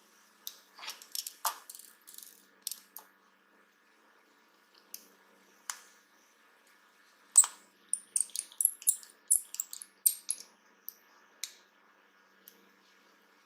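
Small hard objects being handled, clicking and clattering lightly in irregular runs, with one sharper click about halfway through.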